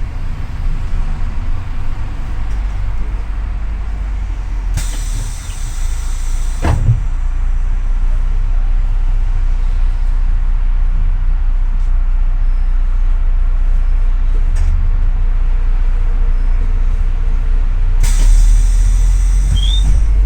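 Double-decker city bus engine running with a steady low rumble, with two loud hisses of compressed air from the bus's pneumatics, about five seconds in and again near the end.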